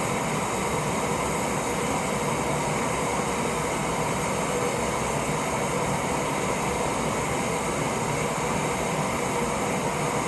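Propane camp stove burner running steadily at full flame under a lidded pot of water coming up to the boil.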